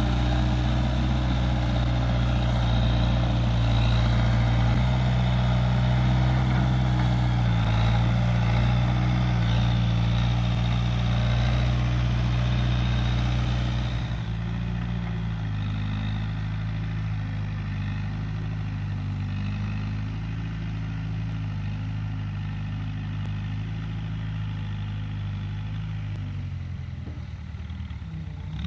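Case 580G backhoe loader's engine running at higher speed, then dropping to a lower, quieter, steady speed about halfway through.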